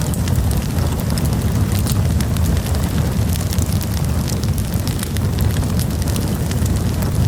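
Wood campfire burning with a steady low rumble and frequent sharp crackles and pops.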